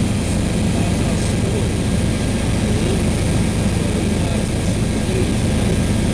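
Helicopter in flight heard from inside the cabin: a loud, steady drone of engine and rotors.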